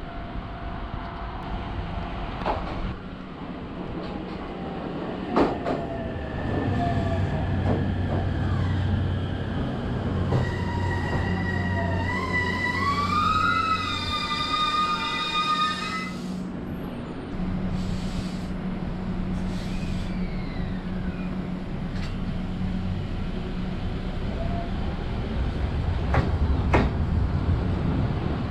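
Train running on rails: a steady low rumble with scattered clicks. Midway a pitched whine slides up and down for several seconds, then stops.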